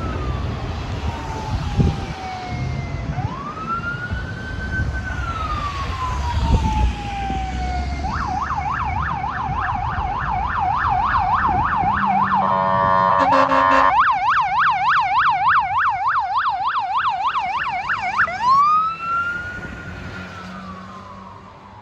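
Fire engine's electronic siren on a response run: a slow rising and falling wail, switching about 8 seconds in to a fast yelp, broken by a horn blast about 12 seconds in, then the yelp again and a last wail that rises and fades out, over the truck's engine rumble.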